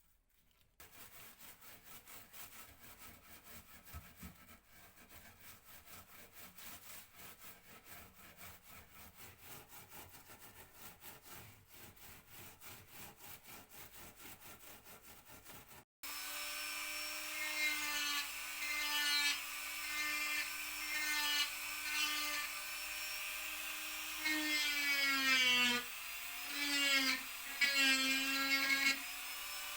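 A quiet, fast, even scratching of work on wood, then, after a cut, an electric power tool's motor running with a steady whine. Near the end its pitch sags and recovers several times as it is loaded against the work.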